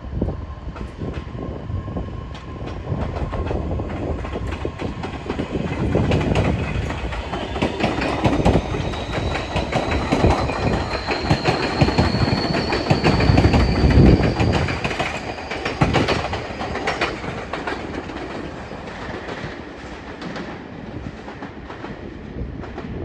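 Tobu 60000 series electric train pulling away: a motor whine rises in pitch as it accelerates, over wheels clacking across rail joints. It grows louder to a peak a little past halfway, then fades.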